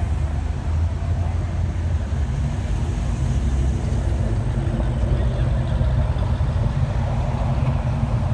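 Steady low rumble of vehicle engines running, street traffic at a car cruise.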